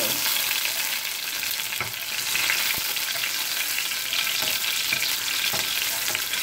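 Garlic and onion sizzling in hot oil in a frying pan, stirred with a wooden spatula that knocks against the pan a few times.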